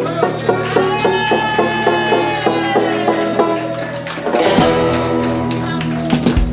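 Acoustic blues-folk instrumental on plucked strings with banjo, repeated picked notes giving way to sliding, bent notes about two-thirds through. A low thump comes near the end.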